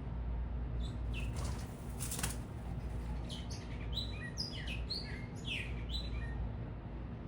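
Small birds at a feeder giving a quick series of short, falling high chirps for a few seconds, with a brief flutter of wings near the start, over a steady low rumble of city traffic.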